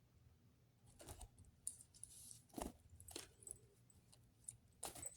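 Faint scattered clicks and taps of small objects being handled, with a brief soft rustle about two seconds in.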